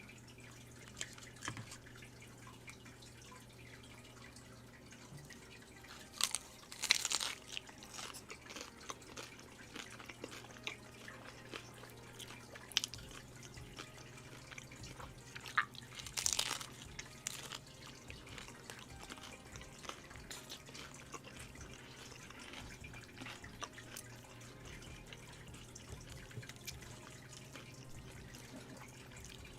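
Kitchen food-preparation sounds: scattered light clicks and taps, with two short noisy bursts about six and sixteen seconds in, over a low steady hum.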